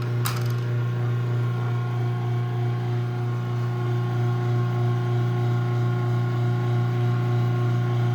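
Craftsman garage door opener's electric motor running steadily as the opener drives an opening cycle, a constant even hum. There is a sharp click just after the start.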